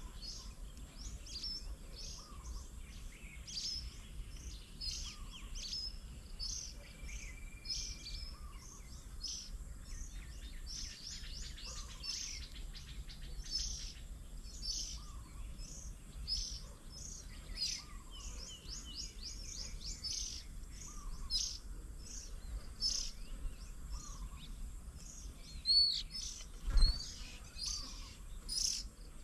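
Several birds chirping and calling in quick, overlapping high notes, with a short lower call repeating about every three seconds. A sharp knock near the end is the loudest sound.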